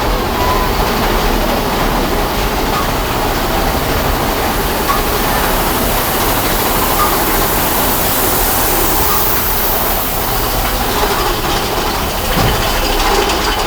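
Steady loud rumble and rattle of the Big Thunder Mountain Railroad mine-train roller coaster running on its track, with a few faint brief squeaks.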